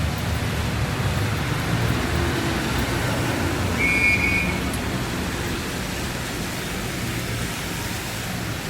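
Heavy rain pouring steadily over a low rumble of traffic, with a brief high-pitched tone about four seconds in.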